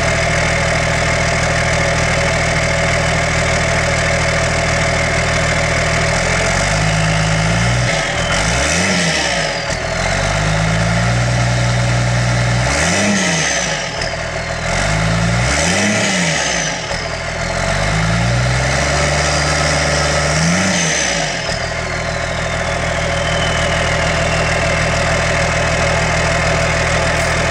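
Cummins 12-valve 5.9-litre inline-six diesel with a 5-inch exhaust idling, then revved four times with no load. After each rev a high turbocharger whistle winds down in pitch, the last one trailing off slowly as the engine settles back to idle.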